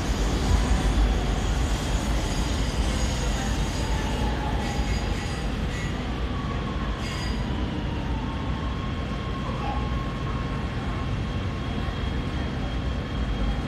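Los Angeles Metro Purple Line subway train heard from inside the car, a steady rumble of wheels on track as it slows into a station. A faint high squeal joins in from about halfway.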